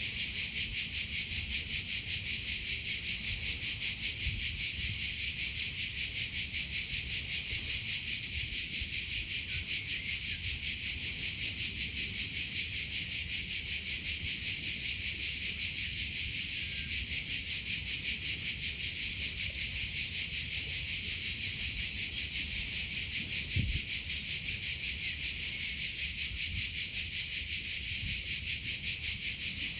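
Cricket chirping in a fast, steady, unbroken pulse, high-pitched.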